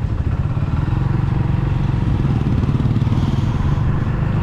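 Motorcycle engine running steadily as the bike is ridden, an even low hum.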